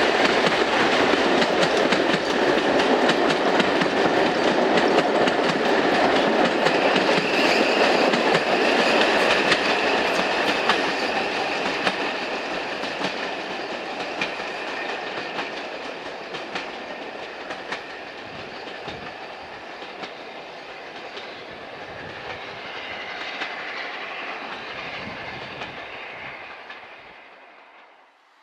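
Passenger coaches of a steam-hauled train running past, their wheels clicking over the rail joints. The sound holds loud for about ten seconds, then fades steadily as the train draws away.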